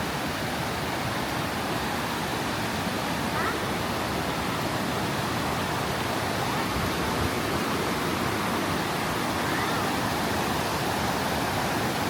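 Mae Ya Waterfall's falling water rushing in a steady, unbroken roar.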